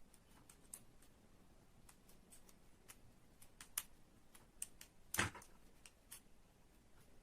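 Scattered light clicks and taps of small hard pieces being handled, with one louder knock about five seconds in.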